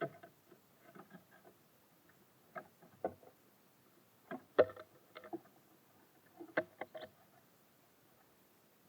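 Irregular taps and knocks of birds pecking and landing on a bird feeder, coming in small clusters of a few strikes each, the loudest a little past halfway.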